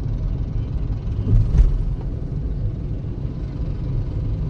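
Steady low rumble of road traffic, with one short thump about one and a half seconds in.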